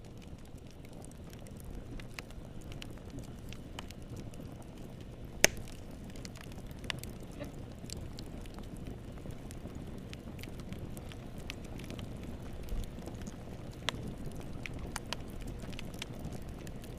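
Fire in a fireplace crackling: a steady low rumble of burning with irregular small snaps and pops, and one sharp loud pop about five and a half seconds in.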